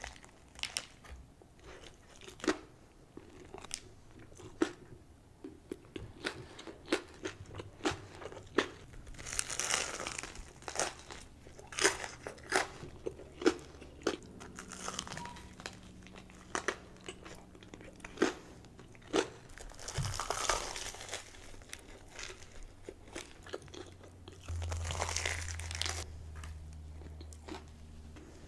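Someone biting into and chewing a crispy-coated Korean corn dog: irregular sharp crunches and chewing clicks, with a few longer stretches of crunching.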